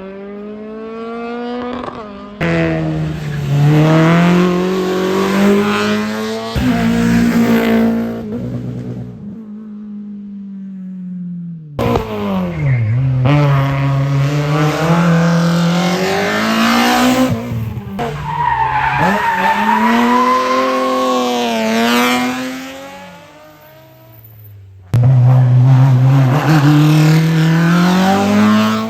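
Race car engines revving hard and dropping back as the cars accelerate and brake through the course, pitch rising and falling over and over, with tyre squeal. The sound changes abruptly about two seconds in, about twelve seconds in and near the end, as one car's run gives way to another's.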